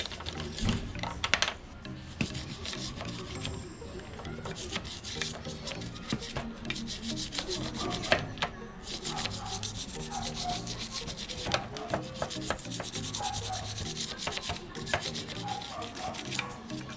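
A toothbrush scrubbing a greasy motorcycle chain sprocket wet with degreaser, in quick repeated strokes.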